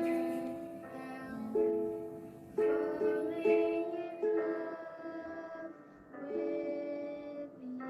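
A slow tune on a small string instrument, a ukulele, playing a run of long held notes at low volume.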